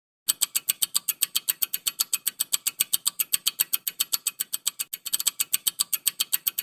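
Quiz countdown-timer sound effect: a fast, even ticking of about seven or eight ticks a second, starting about a quarter second in and running through the answer pause.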